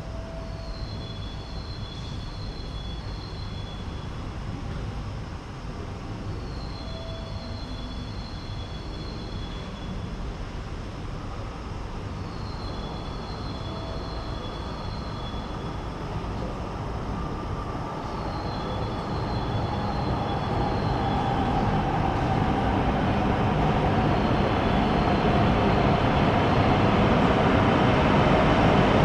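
Shinkansen bullet train approaching a station platform. Its rushing noise swells steadily over the last ten seconds or so, while a short, high, warbling electronic signal repeats about every six seconds.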